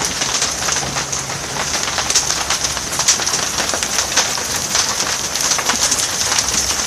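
Heavy rain mixed with small hail, a dense steady hiss with many sharp ticks of stones and drops striking nearby surfaces.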